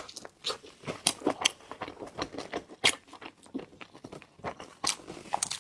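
Close-up mukbang chewing and biting into food with a chive-and-shrimp filling: irregular wet mouth clicks and smacks, with a sharper one just under three seconds in.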